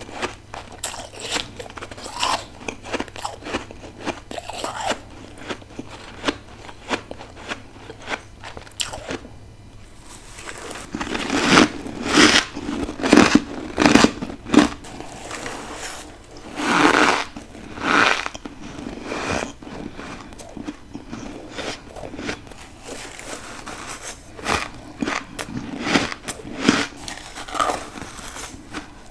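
Close-miked biting and chewing of freezer frost and ice: a string of crisp crunches, louder and closer together from about ten seconds in. A low steady hum stops about a third of the way in.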